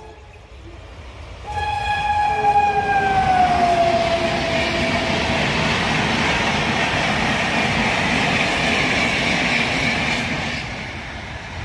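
High-speed express train hauled by a WAP-5 electric locomotive passing close by. Its horn sounds about a second and a half in and drops in pitch as the locomotive goes past, followed by the loud rush of the coaches, which fades near the end.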